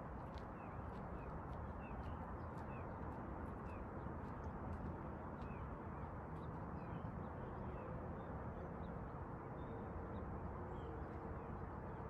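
Birds calling with short chirps over a steady low outdoor background. The chirps come about two a second at first, then more scattered later.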